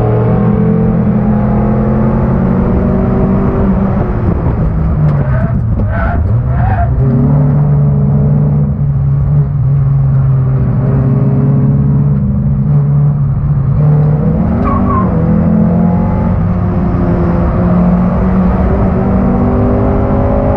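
1991 Honda Accord's four-cylinder engine running hard under racing load, heard from inside the car. The engine note drops in pitch about four to five seconds in as the car slows, then climbs again, and shifts again around fourteen seconds in.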